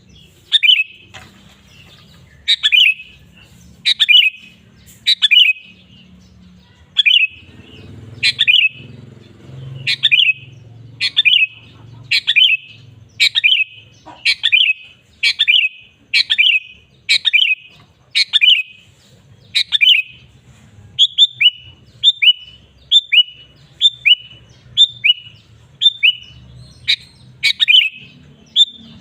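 Sooty-headed bulbul (kutilang) singing in full voice: loud, short, repeated phrases about once a second, switching after about 20 seconds to quicker, shorter falling notes.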